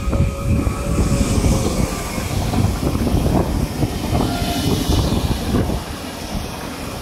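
A train passing on the line with a loud, rumbling wheel-on-rail noise and a few faint whining tones. The noise eases off about six seconds in.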